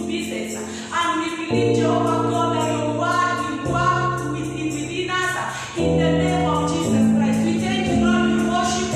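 Congregational worship song: a choir of voices singing over a keyboard or band accompaniment with a steady bass, the chords changing every second or so.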